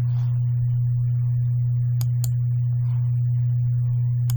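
A steady low hum at one pitch, with three sharp clicks about two seconds in, a quarter-second later, and near the end.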